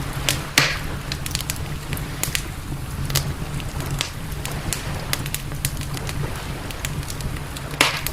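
Wood campfire crackling, with frequent sharp pops and snaps, two of them louder: one about half a second in and one near the end. A steady low rumble runs underneath.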